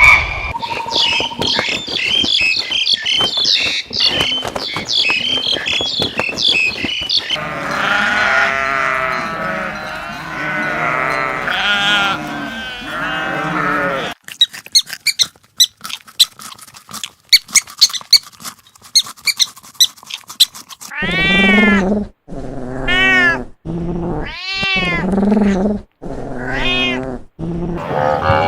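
A run of different animal calls: rapid high-pitched chirping calls at first, then a dense chorus of many overlapping calls, then quick sharp clicks and chirps, and in the last seconds six or seven separate calls that rise and fall in pitch, about one a second.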